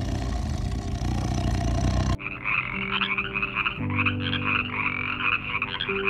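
A low rumbling noise, then, about two seconds in, a sudden switch to a dense chorus of frogs calling with rapid pulsed notes.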